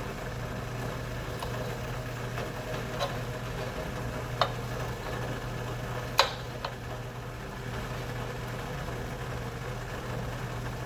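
Knife cutting sausage on a cutting board: a few sharp knocks spaced a second or more apart, the loudest about six seconds in, over a steady low hum.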